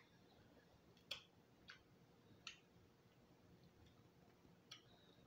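Near silence with a few faint, irregular clicks of chewing as crispy fried eel is eaten: four small crunches spread unevenly through the quiet.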